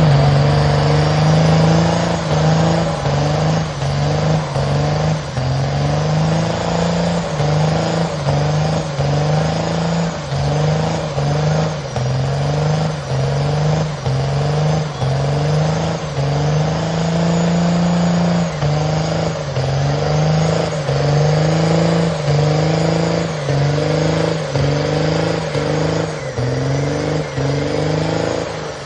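A truck engine revving over and over, its pitch climbing in short repeated rises about once or twice a second.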